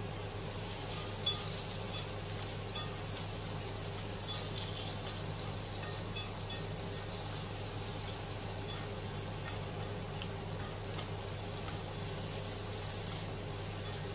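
Sliced onion, carrot and mushrooms sizzling in oil in a nonstick frying pan while being stirred with wooden chopsticks, with a few sharp ticks, mostly in the first three seconds.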